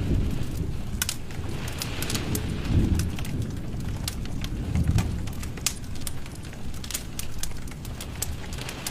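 Wood fire burning in a fireplace: a steady low rumble of flame that swells now and then, with frequent sharp crackles and pops from the burning wood.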